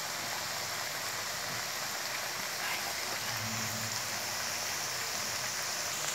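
Diced tomatoes, onions and bell peppers sizzling steadily in hot oil in a wok.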